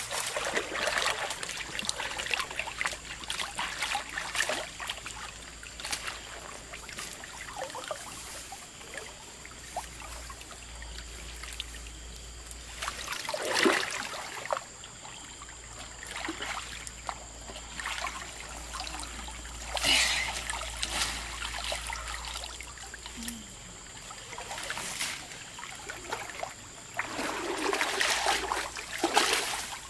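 River water trickling and splashing, with irregular louder splashes that come and go rather than a steady flow.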